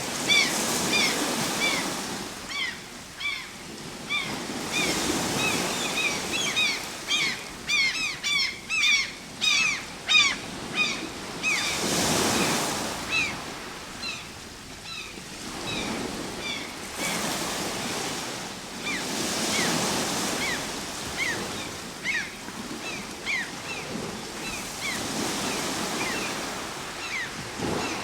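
Ocean waves washing in and drawing back in slow surges several seconds apart. Birds call over them in many short, falling chirps, most crowded about a third of the way in.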